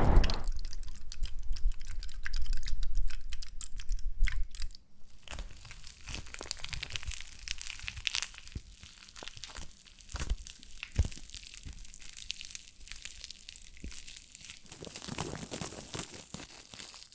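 Close-miked crinkling and crackling: many small irregular ticks and crackles, louder over the first five seconds, then softer.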